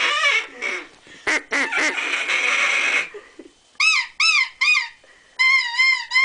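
Children calling to birds with high-pitched wordless calls: about three seconds of drawn-out, wavering calls, then a pause, three short rising-and-falling calls and one longer wavering call near the end.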